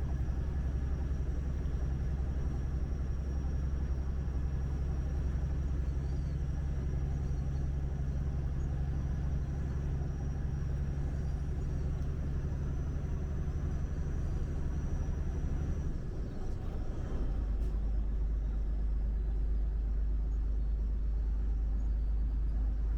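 Truck engine and road noise heard while driving: a steady low drone. About sixteen seconds in the drone briefly dips and settles into a different, deeper tone.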